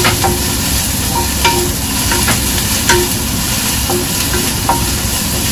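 Ginger-garlic paste frying with browned onions, coriander and mint in a nonstick pot, sizzling steadily while a wooden spatula stirs it. Short knocks of the spatula against the pot come every half second to a second.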